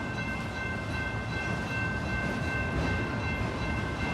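Freight train cars rolling past with a steady rumble, and steady high-pitched tones held over it.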